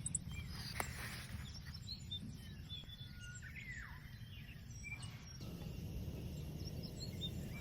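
Birds chirping with several short, gliding calls over a steady low rumble of outdoor noise, with one sharp click about a second in.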